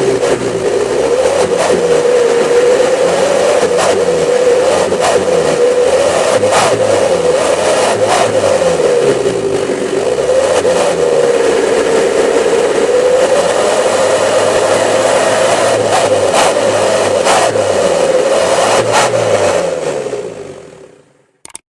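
Mitsubishi L300's 'wolf' whistle exhaust (knalpot srigala) howling with a strong, slightly wavering tone over the running engine, whose pitch shifts as it is revved. The sound fades out near the end.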